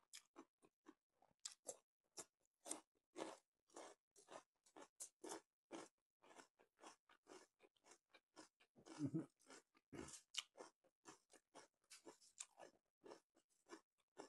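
Close-miked crunchy chewing of a raw radish stick: a steady run of crisp crunches, about three or four a second, with one louder, deeper crunch past the middle.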